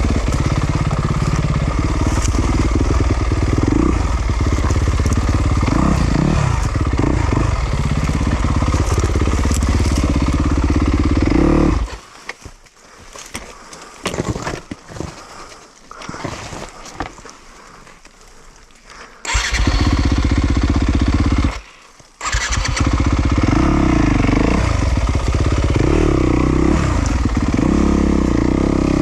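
Yamaha YZ250FX's single-cylinder four-stroke dirt bike engine revving up and down. About twelve seconds in it cuts out suddenly and stays off for about seven seconds, then fires again, dies for a moment and picks up again: a stall and restart.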